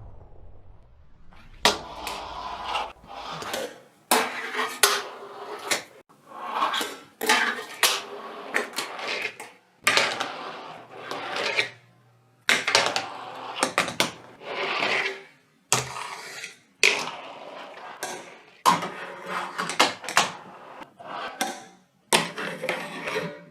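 Hard objects knocking and clattering, with short scraping or rubbing between the knocks, about one to three knocks a second.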